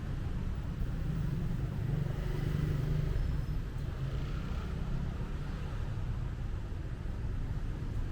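Street traffic with a steady low rumble that swells a little about two to three seconds in, as a vehicle passes close by.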